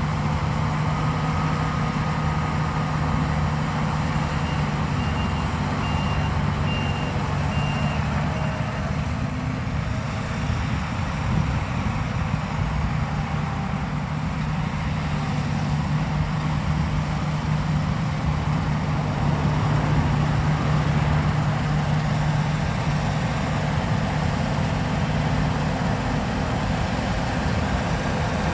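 Heavy farm machinery's diesel engine running steadily with a strong low hum. A short run of high, evenly spaced beeps, like a reversing alarm, sounds about five seconds in.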